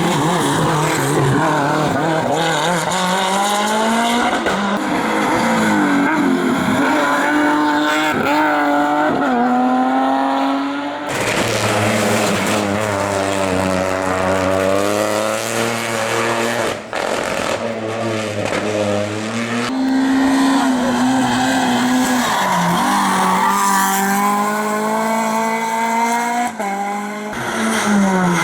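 Racing car engines at full throttle on a hillclimb, revving up through the gears with a drop in pitch at each shift. Several different cars follow one another with abrupt changes in engine note.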